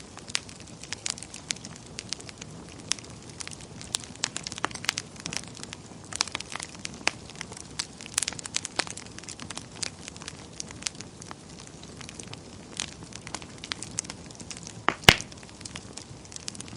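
Wood fire in a fireplace crackling: a steady hiss with many small, irregular snaps of burning wood, and one loud pop late on.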